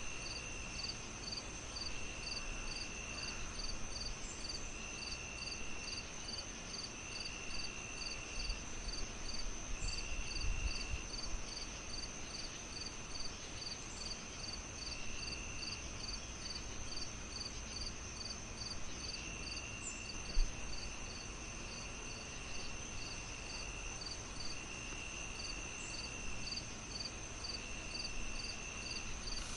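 Layered insect chorus of crickets chirping in an even rhythm: quick high pips about three a second, with a lower trill lasting a second or so that repeats every couple of seconds, over a steady hiss. A single soft low thump comes about twenty seconds in.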